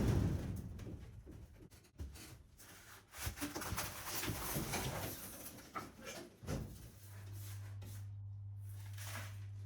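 Irregular knocks and scraping of wooden wall panelling being worked loose and pulled away inside a caravan. From about seven seconds in, the knocking stops and a steady low hum remains.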